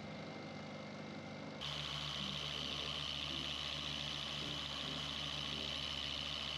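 Small electric polisher running steadily on a car's painted panel, starting about one and a half seconds in, buffing out the knockdown marks left by paintless dent repair.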